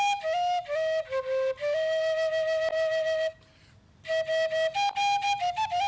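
Atenteben, the Ghanaian bamboo flute, playing solo the tune played in Ghana when someone dies: a single melody of held notes stepping up and down, with a short break for breath about three and a half seconds in.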